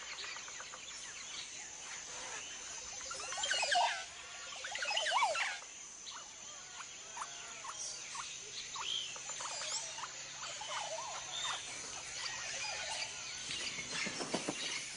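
Male oropendolas giving their gurgling, burbling courtship songs, a liquid run of gliding notes, loudest in two bursts at about three and a half and five seconds in. Other birds call throughout over a steady high whine.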